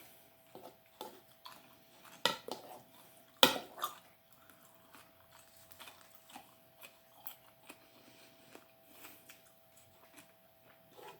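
Eating sounds: a utensil clinking and scraping against a dish, with scattered small clicks of chewing. The loudest clink comes about three and a half seconds in, after another about two seconds in.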